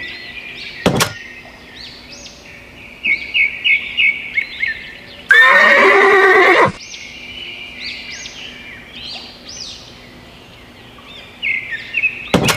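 A horse neighing once, about five seconds in, for about a second and a half, over a run of short high bird chirps.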